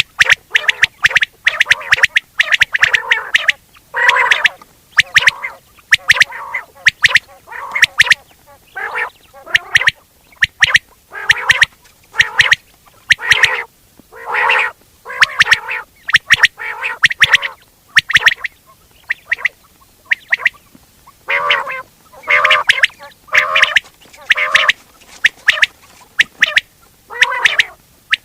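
Quail calling over and over in short, harsh, raspy bursts, roughly one a second with uneven pauses between runs.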